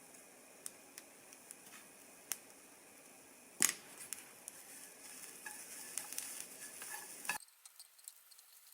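Quiet, scattered clicks and taps of small objects being handled. A sharp knock about three and a half seconds in is followed by a few seconds of busier clicking and rustling, which cuts off suddenly near the end.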